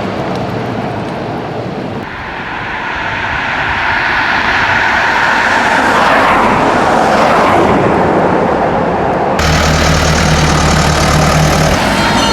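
Traffic on a fast trunk road: a vehicle approaches, grows louder and passes close by with a falling pitch. About three-quarters of the way through the sound cuts suddenly to a steady, low engine hum.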